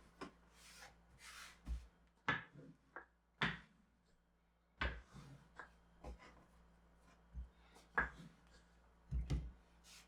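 Household handling sounds: a scattered series of light knocks and clicks, as of objects being set down and moved on wooden surfaces, with a few soft rustling swishes in between.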